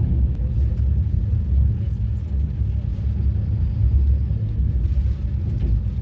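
Steady low rumble of a moving train, with faint scattered ticks over it.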